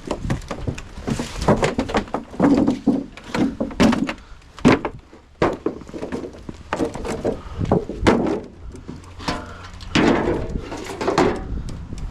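Irregular knocks, clunks and rustling scrapes from a fridge/freezer being pulled apart by hand.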